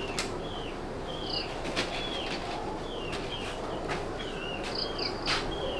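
A bird chirping over and over: one short, falling chirp about every half second, with a few sharp clicks in between.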